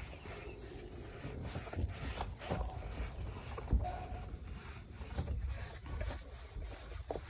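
A rag wiping and rubbing over engine-bay plastics coated in tire shine, in irregular strokes with a couple of brief squeaks.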